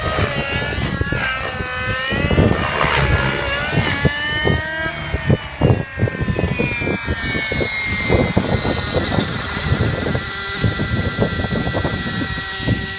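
Glow engine and rotors of a 600-size nitro RC helicopter in flight. The pitch swings up and down for the first several seconds, then holds steady. Gusts of strong wind buffet the microphone throughout.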